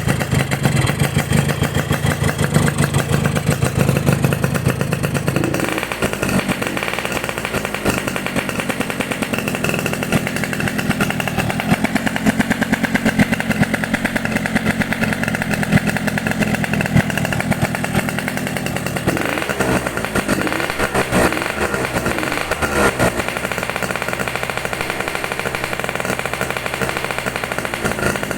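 Yamaha RX-King two-stroke single-cylinder engine running through a Boban aftermarket exhaust, with a fast, even firing rattle. The throttle is blipped a few times, rising and falling, about twenty seconds in.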